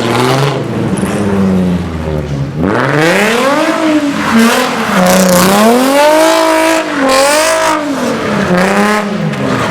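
A car engine revving hard, its pitch climbing and dropping in repeated waves about once every second or so, over a steady rushing hiss.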